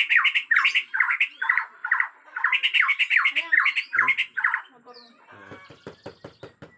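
Bornean white-rumped shama (murai batu) singing aggressively: a fast run of loud, harsh, falling notes with a brief pause about two seconds in. About five seconds in, this gives way to a faint rapid clicking rattle.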